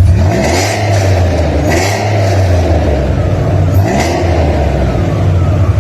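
Ford Mustang 4.0 V6 running through a loud aftermarket exhaust: a steady, deep drone with a few slight rises in pitch.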